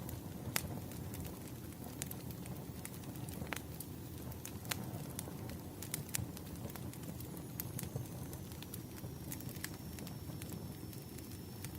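Wood fire crackling: a steady low rumble of flames with scattered sharp pops and snaps. A faint, thin, high whine comes in about two-thirds of the way through.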